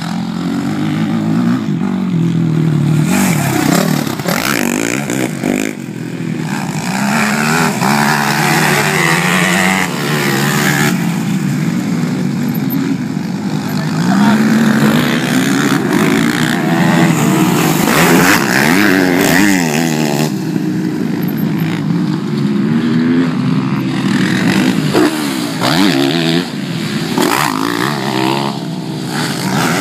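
Motocross bike engines revving hard, their pitch rising and falling over and over as the riders accelerate, shift and back off.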